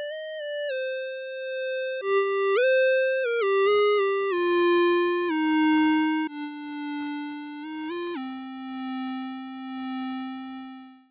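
Surge XT software synthesizer playing a single-voice lead patch: one bright, buzzy note at a time, stepping and gliding between pitches in a slow phrase, with a gentle pulsing swell in volume. It settles on a long low note in the second half and stops sharply at the end.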